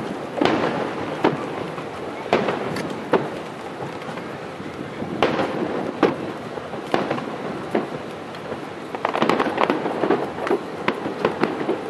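Fireworks display: aerial shells bursting in a string of sharp bangs every second or so, with a rapid burst of crackling about nine seconds in.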